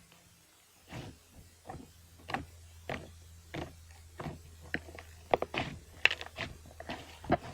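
Irregular short clicks and taps of something being handled by hand, a couple a second and busier after about four seconds, over a steady low hum that starts about a second in.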